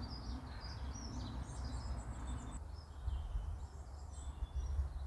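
Small birds chirping and twittering in short high notes, over a low steady rumble of outdoor background noise.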